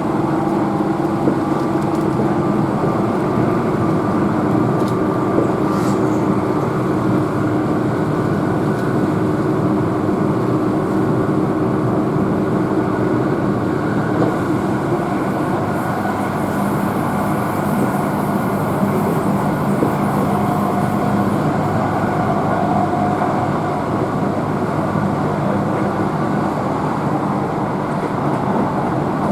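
Keihan electric train running at speed, heard from inside the passenger car: steady rumble of wheels on the rails with a continuous motor hum.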